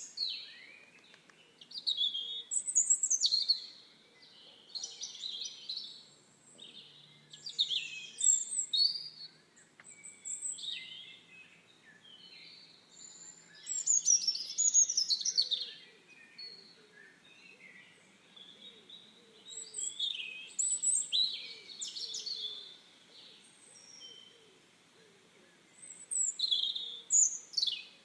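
Small songbirds chirping and twittering in short bursts of high, quickly gliding notes that come every few seconds over a faint steady background.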